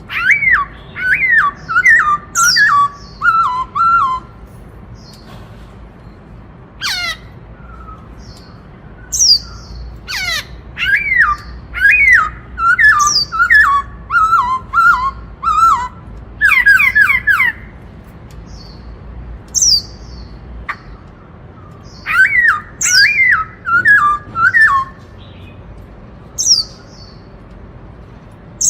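Black-throated laughingthrush singing loudly in the "bắt cô trói cột" song style, which echoes the Indian cuckoo's call. Three long runs of quick, looping whistled notes, with single sharp high calls in the gaps between them.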